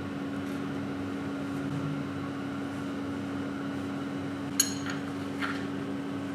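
A machine's steady hum on one pitch, with a sharp metallic clink a little over four seconds in and a softer tap shortly after.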